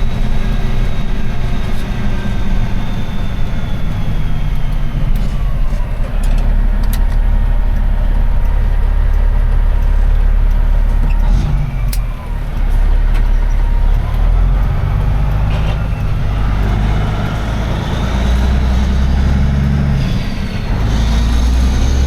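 Semi-truck diesel engine running under way, heard from inside the cab: a loud low rumble with tones that slide up and down as engine speed changes, and a brief drop about twelve seconds in.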